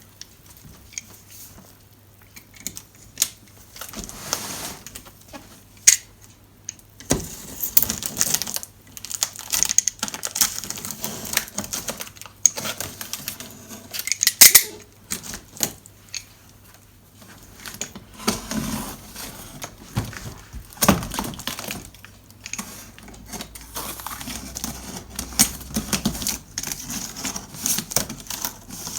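Cardboard box being opened and unpacked by hand: scattered clicks and knocks with bursts of rustling packaging.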